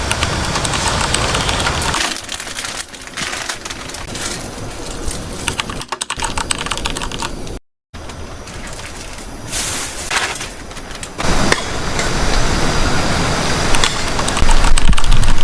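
Heavy rain as a steady rushing noise, giving way to a quieter stretch of dense, irregular clicking that breaks off abruptly in the middle. The rushing returns and grows louder near the end.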